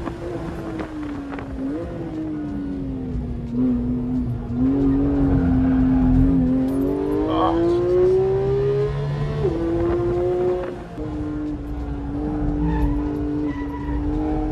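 Porsche 911 GT3's 4.0-litre flat-six heard from inside the cabin, pulling hard on track. The engine note climbs steadily for several seconds, then drops sharply with upshifts about two-thirds of the way in and settles at a steady pitch.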